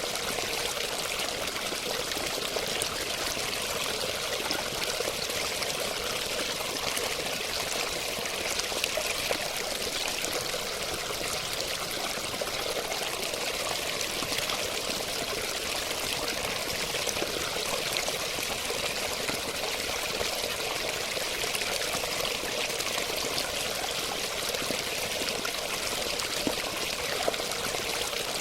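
Steady flowing water, a continuous rushing and splashing like a stream or small cascade, with no change in level.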